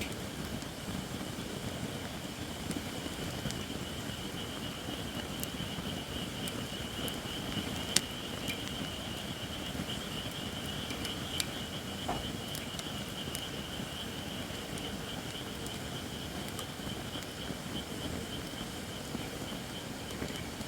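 Japanese white oak firewood burning in a campfire: a steady crackle with occasional sharp pops, the loudest about eight seconds in. A steady high hiss runs alongside, the sign of firewood not yet dry enough.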